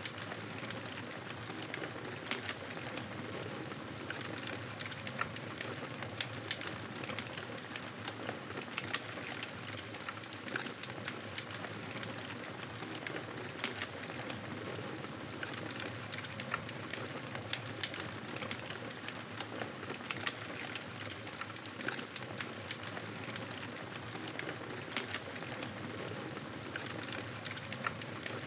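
Campfire crackling: a steady hiss of burning wood with frequent irregular snaps and pops.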